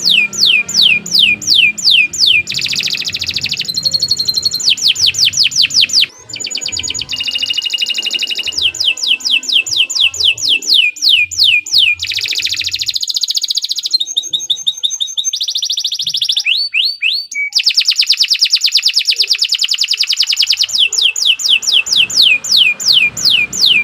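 Domestic canary singing a long, unbroken song: rapid series of repeated downward-sweeping notes, switching to a new phrase or trill every few seconds.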